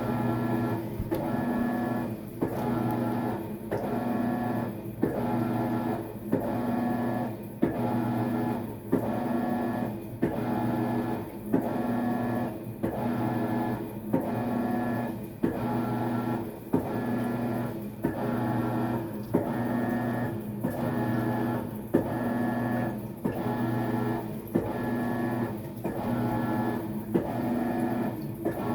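Maytag top-load washer agitating during a tub-clean cycle: the drive motor hums in even back-and-forth strokes, one a little over a second apart, each with a brief pause and a click as it reverses.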